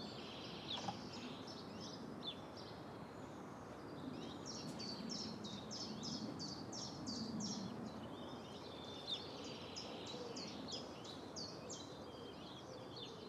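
A bird singing faintly: runs of quick, high chirps, densest in the middle and again a little later, over a low steady background noise.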